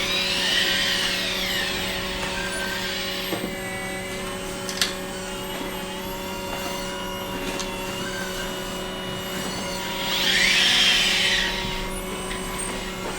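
Small electric motors and hydraulic pumps of RC model construction machines running with a steady hum, swelling twice into a louder whine that rises and falls in pitch, near the start and again near the end. A single sharp click midway.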